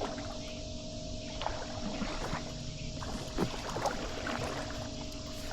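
Kayak paddle strokes dipping into the water, with a few small splashes and drips, over a steady low hum and rumble.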